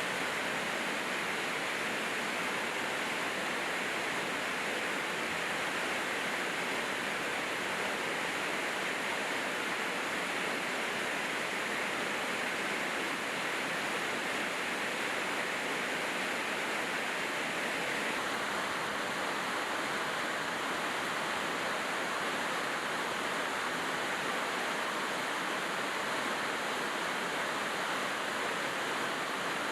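Steady, heavy rainfall: a constant wash of rain noise that does not rise or fall.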